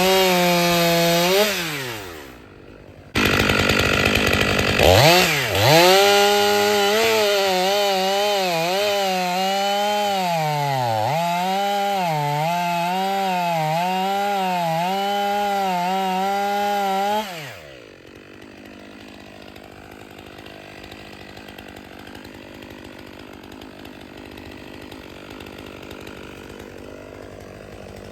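Stihl 500i two-stroke chainsaw revved briefly and let fall, then run at full throttle cutting through firewood, its engine speed dipping and recovering again and again as the chain loads in the cut. It drops off about two-thirds of the way in, leaving only a low background hiss.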